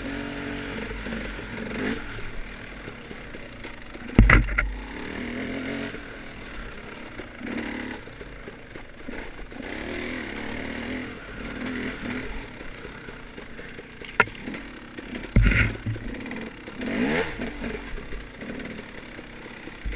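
Off-road dirt bike engine running at low, uneven revs, its pitch rising and falling as the rider works the throttle on a trail. There are a few heavy thumps, about 4 s in, about 14 s in and a second later.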